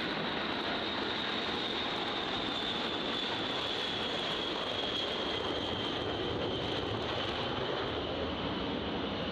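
Jet aircraft engines running, a steady rush of noise with a high whine that slowly falls in pitch.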